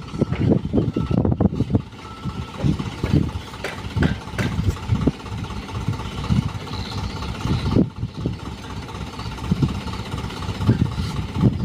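Dump truck's diesel engine running, with an uneven low rumble.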